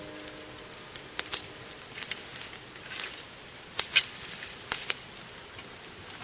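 Wood bonfire crackling, with irregular sharp pops and snaps, the loudest pair about four seconds in.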